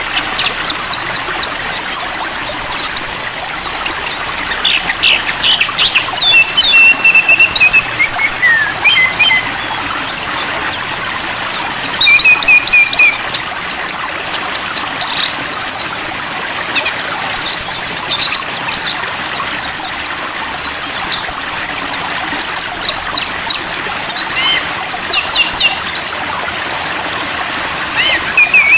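Songbird chirps, whistles and quick rattling trills, repeated in short phrases, over the steady rush of flowing water.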